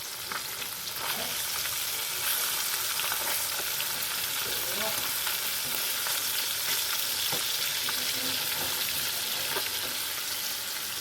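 Fish pieces frying in hot oil in a pan, a steady sizzle with scattered small pops.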